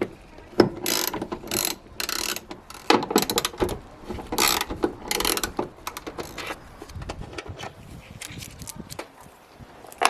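Socket ratchet wrench clicking in several short bursts while undoing the air box bolts, then quieter handling sounds in the second half.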